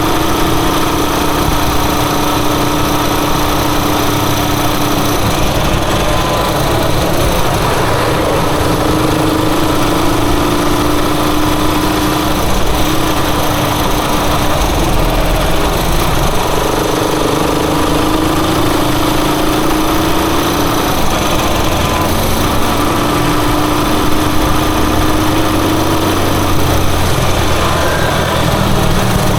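Rusi Chariot 175 motorcycle engine running while riding, its note shifting up and down a little over a steady rush of noise.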